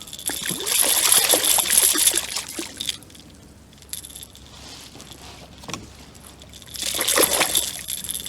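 Water splashing and sloshing in two bursts against a kayak, a hooked fish thrashing at the surface as it is brought alongside.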